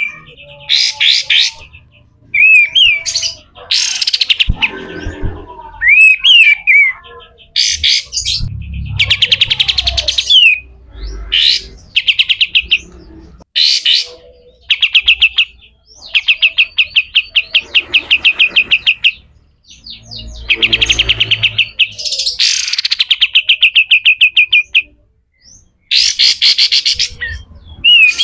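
Kapas tembak bulbul giving harsh, rapid rattling trills in repeated bursts of a few seconds each, with short curved whistle notes in between: the coarse 'besetan kasar' scolding call.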